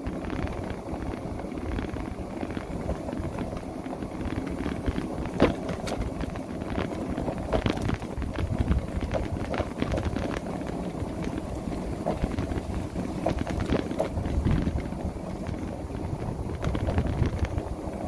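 Wind buffeting the microphone, with rumble from riding along on an electric motorbike. There are a few sharp clicks or rattles scattered through it.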